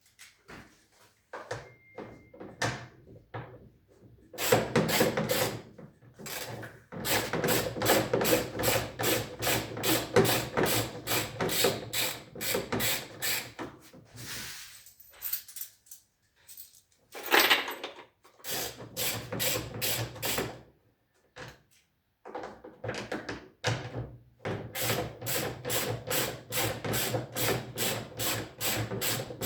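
A hand tool worked in quick, even strokes, about two or three a second, in three long runs separated by pauses, with a few separate knocks at the start.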